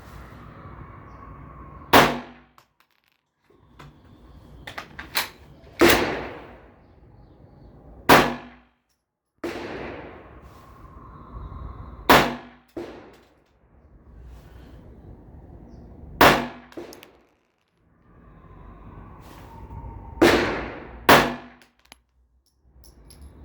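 Single pistol shots from a Glock fitted in a Fab Defense Roni carbine kit, about ten sharp reports fired one to four seconds apart, some in quick pairs, each with a short ringing tail.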